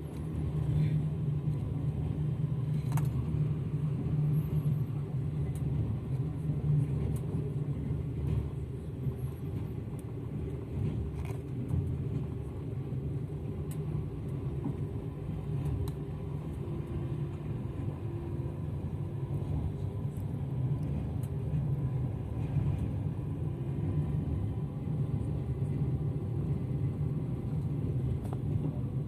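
Passenger train 001E running along the line: a steady low rumble of wheels on rails, with a few faint clicks.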